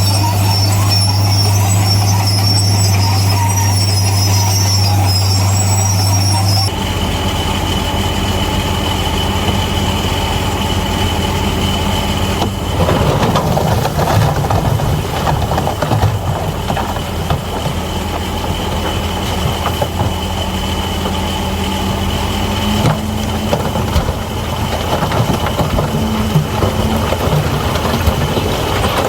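Bulldozer working: a diesel engine running steadily, with its steel crawler tracks squealing and clanking. The sound changes abruptly about seven seconds in and turns rougher and more clattering from about twelve seconds.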